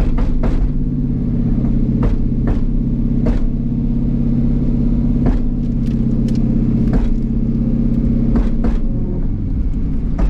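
V8 car engine idling steadily at an even pitch, with a few sharp clicks over it; the tone shifts a little near the end.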